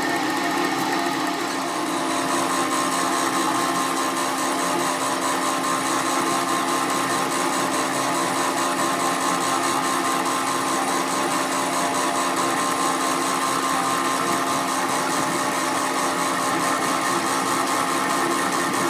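A workshop power tool running steadily, holding one even pitch without starting, stopping or changing speed.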